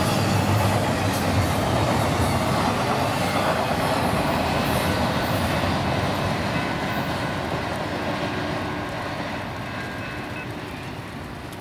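Double-stack intermodal container train's freight cars rolling past on the rails, then fading as the end of the train passes and moves away.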